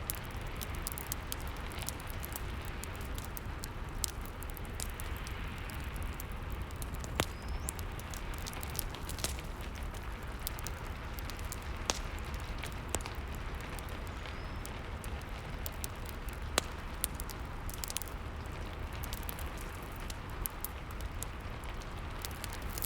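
Rain and fireplace ambience: steady rain with a low rumble, and a wood fire crackling with frequent sharp pops scattered throughout.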